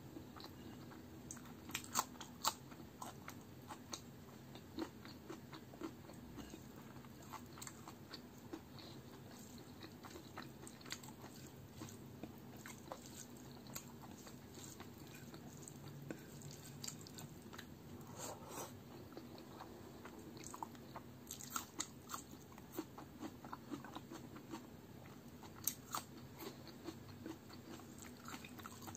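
Close-miked chewing and lip smacking on a mouthful of rice and palak chicken, with many short sharp clicks. A few louder smacks come about two seconds in and again near three-quarters of the way through.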